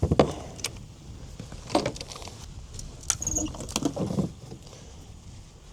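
Gear being handled in a kayak: a few separate knocks and short rattling clatters against the hull, about a second or two apart.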